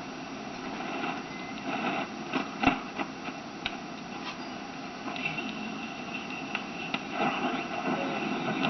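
Static from a freshly recapped Rogers tube radio as it is tuned across the band: steady hiss with scattered crackles and faint thin whistles, with no station coming through yet.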